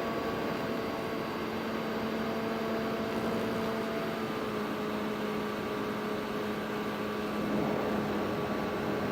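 FPV drone's electric motors and propellers running steadily: a whirring hum with a few steady tones that drift slightly in pitch, over an even rushing noise.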